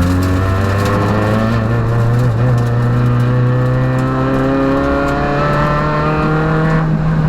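Peugeot rally car's engine heard from inside the cabin, pulling hard with the revs climbing slowly and steadily. Near the end the higher part of the sound drops away abruptly as the throttle eases.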